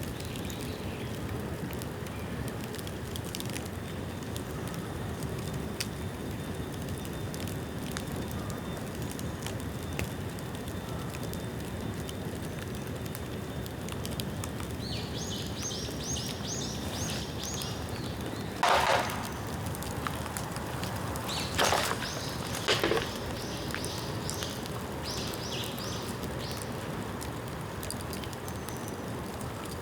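Bamboo bonfire burning with a steady crackle, broken by three loud sharp pops near the middle, typical of bamboo segments bursting in the heat. A small bird chirps in quick runs of short high notes at the same time.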